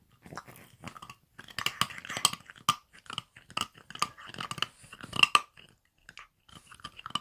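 French bulldog puppy chewing on a brush, irregular crunching and clicking bites. The bites come thickest in the middle, pause briefly near the end, then start again.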